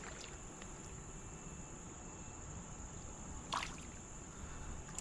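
Quiet creekside ambience: a soft steady rush of running creek water under a thin, steady high-pitched whine, with one brief sharp sound about three and a half seconds in.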